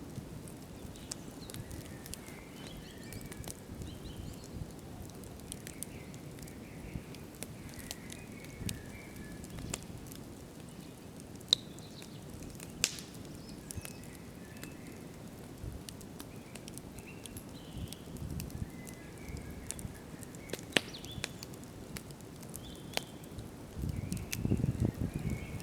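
Wood campfire burning with a steady low rush of flame and scattered sharp crackles and pops, two of them louder in the middle. The flame noise swells louder near the end, and faint high chirps sound now and then in the background.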